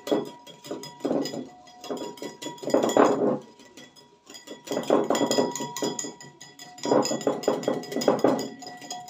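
Wire hand whisk beating mayonnaise in a bowl: rapid clicking of the tines against the bowl in bursts of a second or so, with short pauses between, as the mayonnaise thickens.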